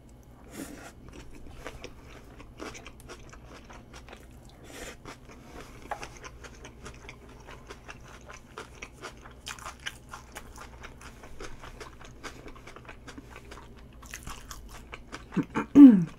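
Close-miked chewing of crunchy food: a steady run of small crunches and wet mouth clicks. Near the end comes a short hummed 'mm' sound, the loudest moment.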